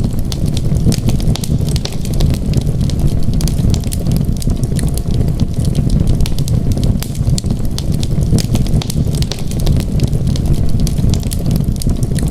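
Wood fire crackling, with many small sharp pops scattered irregularly over a steady low rumble.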